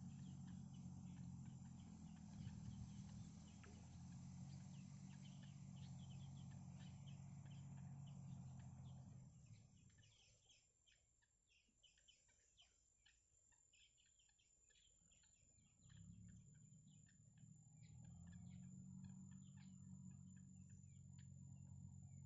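Faint, quick ticking bird calls over a low steady hum. The hum drops away for several seconds in the middle, then comes back.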